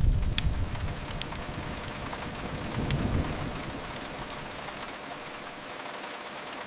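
Steady rain hiss with a few sharp crackles of a wood fire. A low rumble is strong at the start, swells again about three seconds in, then fades.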